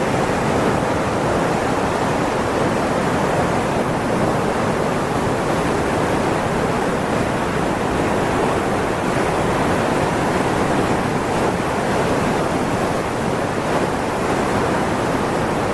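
Steady, unbroken rushing of water, with no breaks or distinct events.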